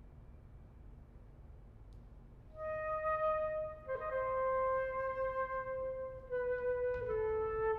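Flute playing long held notes that step down in pitch one after another, entering about two and a half seconds in after a hush in which a previous note dies away.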